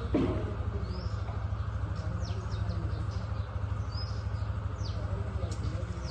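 Small birds chirping: short, high, down-sweeping chirps every second or so, over a steady low rumble.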